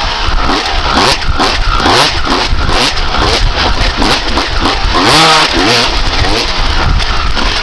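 1995 Honda CR250R's single-cylinder two-stroke engine revving hard under load on a motocross track, its pitch climbing and dropping back many times as the throttle is opened and closed through the gears.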